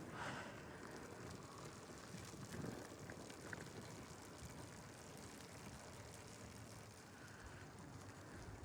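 Faint steady rolling noise of a bicycle being ridden on a road.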